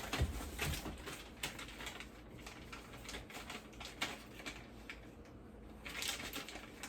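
Light rustling and scattered clicks of loose cables and plastic packaging being handled, with a couple of soft thumps near the start.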